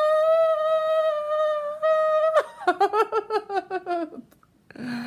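A voice holds one long steady 'woo' note, then breaks into a quick warbling run of 'woo-hoo-hoo' notes, sung to a pet bird.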